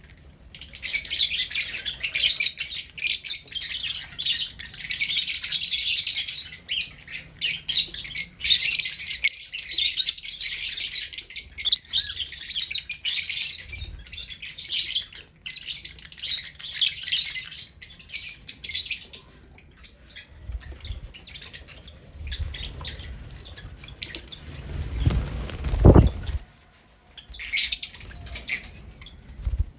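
Lovebirds chattering in a dense run of rapid, high chirps. About two-thirds of the way through, the chirping thins out to a stretch of low rustling and thumps, with one loud thump a few seconds before the end. A short burst of chirping follows.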